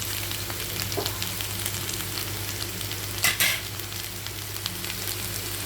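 Mutton meatballs frying in hot oil in a pan, a steady sizzle with small crackles, and a brief louder burst a little over three seconds in. A steady low hum runs underneath.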